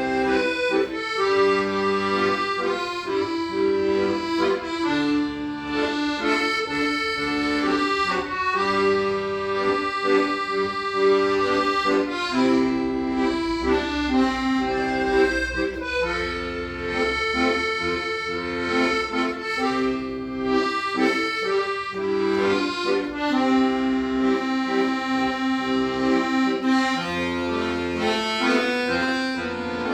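Accordion playing a melody over sustained chords and bass notes.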